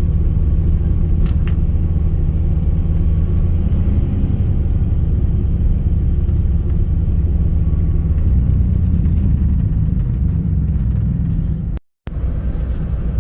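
Steady low engine and road rumble heard from inside a moving bus, broken by a split-second gap about twelve seconds in.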